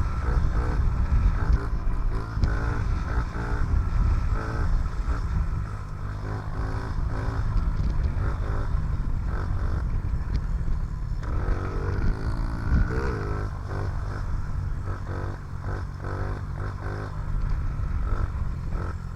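Honda CRF50F mini dirt bike's small single-cylinder four-stroke engine being ridden, its note rising and falling again and again as the throttle is worked, over a heavy low rumble.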